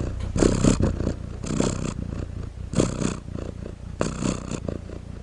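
Domestic cat purring steadily, swelling in a slow rhythm with each breath about every 1.2 seconds. It stops abruptly near the end.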